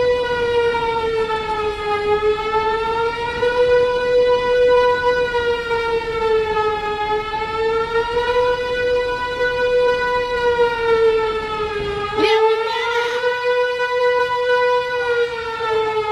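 A warning siren sounding one continuous wailing tone that slowly rises and falls in pitch, about every three seconds. A low rumbling noise runs underneath until it cuts out about three-quarters of the way through.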